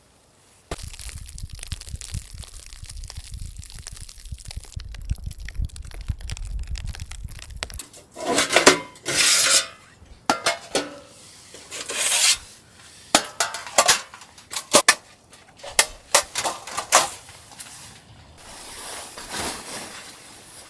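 A steady low rumbling noise for about seven seconds, then a run of irregular scrapes and clinks, like gear or utensils being handled, before a softer hiss near the end.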